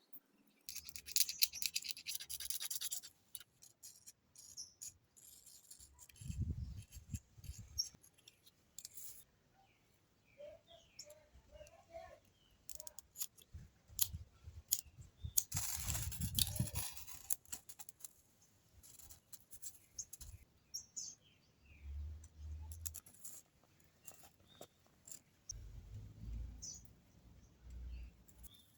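Rasping scratches from a broken lighter's flint wheel being struck for sparks, in two bursts: one about a second in and a longer one about fifteen seconds in. Birds chirp faintly between them, and low rumbles of handling noise come and go.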